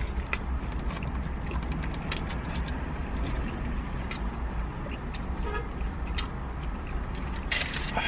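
Steady low rumble of a car cabin with scattered small clicks and crinkles of people eating sandwiches, and a short paper rustle near the end.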